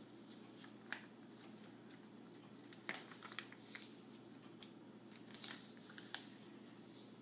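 A sheet of paper being folded and creased by hand: faint, with a few sharp ticks and brief crisp rustles.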